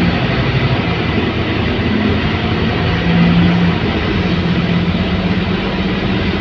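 Scania K280UB bus's rear-mounted diesel engine running steadily under way, a continuous low drone over road and cabin noise, its pitch shifting slightly about three seconds in.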